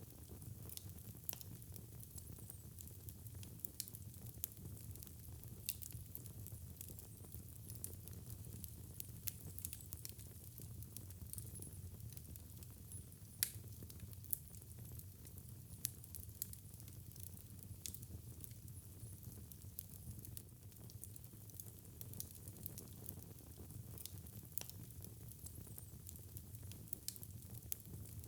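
Wood fire in a fireplace crackling, with frequent small sharp pops over a low rumble of the burning fire and one louder pop about halfway through.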